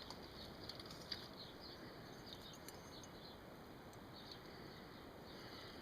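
Near silence: faint background hiss with a few light, scattered ticks.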